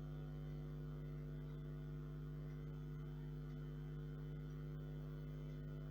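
Steady electrical hum with several overtones, unchanging throughout.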